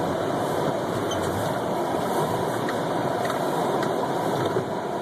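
Steady car cabin noise of driving slowly on a snow-covered road: engine and tyre noise with a few faint ticks.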